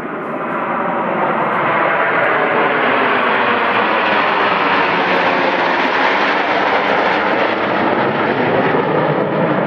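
Airplane engine passing close by: the noise swells over the first couple of seconds, is fullest around the middle and stays loud.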